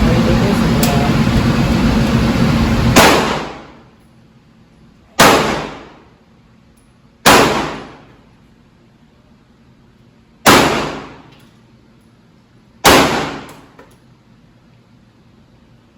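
Five gunshots at an indoor shooting range, fired two to three seconds apart, each with a short echo that dies away in under a second. A steady loud noise cuts off about three seconds in, just as the first shot sounds.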